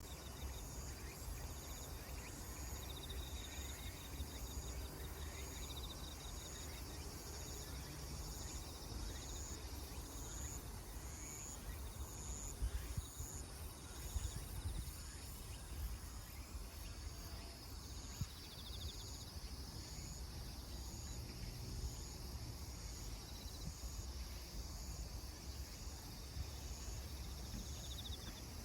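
Insects chirping outdoors: a steady series of short high chirps, about one and a half a second, with a few brief lower trills now and then, over a low steady rumble.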